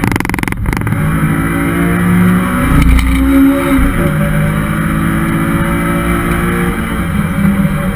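Honda S2000's F20C inline-four engine at high revs on track, its pitch climbing and dropping with gear changes, with a brief break in the note about half a second in.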